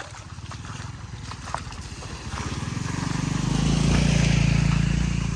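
A motor vehicle engine running, growing louder to a peak about four seconds in and then easing off a little.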